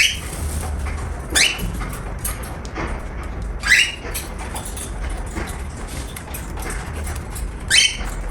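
Cockatiel giving four short calls that sweep upward in pitch, spaced irregularly one to four seconds apart.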